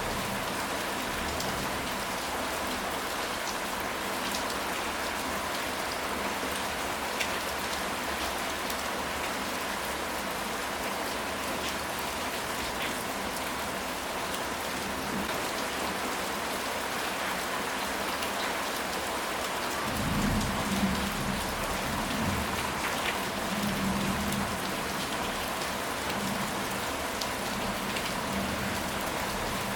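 Steady rain falling on a surface, with a low rumble of thunder rolling in about two-thirds of the way through and lasting several seconds.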